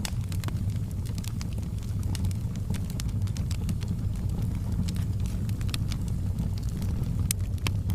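Bonfire burning: a steady low rumble of the fire with irregular sharp crackles and pops scattered throughout.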